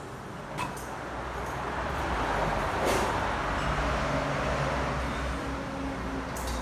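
A motor-driven machine running: a rushing noise builds over the first two or three seconds, with a couple of sharp clicks, and then settles into a steady low hum with a few held tones.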